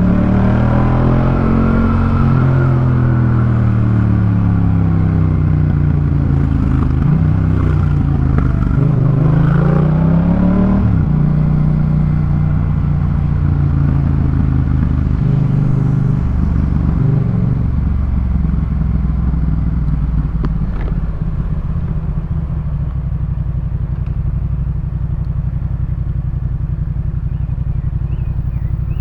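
Yamaha MT-07's parallel-twin engine through a Jeskap K4 full aftermarket exhaust, pitch rising and falling with the throttle for about the first eleven seconds, then holding a steady lower pitch.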